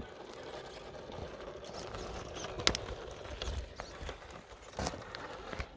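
Faint scuffing with two sharp clicks about two seconds apart, as a 1/10 scale RC crawler works over the course's rocks.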